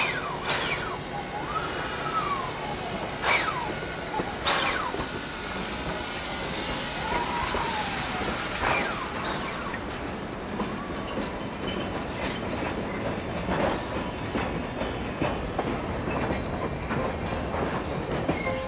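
Train of old freight cars rolling past, with brief, rising and falling squeals from the wheel flanges in the first half and the wheels clicking over rail joints later on.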